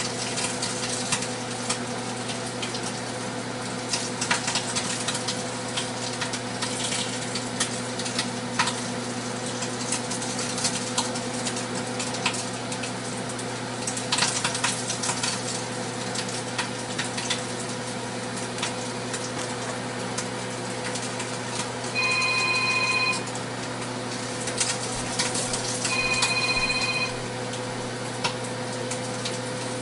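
LG Smart Inverter microwave running with a steady hum while bacon under a paper towel pops and crackles inside. Near the end an electronic ringing tone sounds in short rings of about a second, a few seconds apart.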